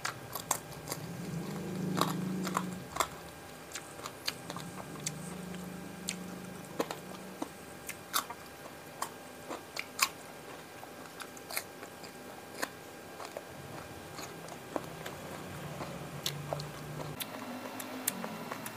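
Close-miked chewing of fried tilapia and raw vegetables, with sharp crunches scattered irregularly throughout and the loudest ones about two, eight and ten seconds in.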